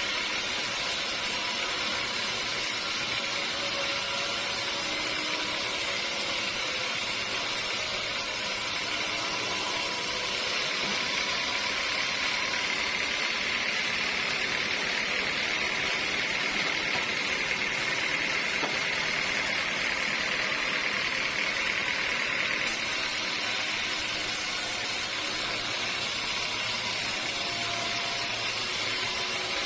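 Sawmill saw running steadily as it cuts through a teak log, with a higher-pitched whine of the cut growing stronger from about ten seconds in and easing off after about twenty seconds.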